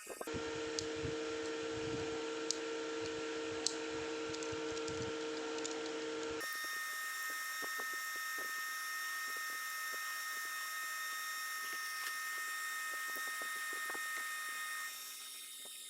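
Small handheld rotary tool running steadily with a high whine, grinding or sanding with scattered light ticks. The sound changes abruptly about six seconds in to a different steady whine.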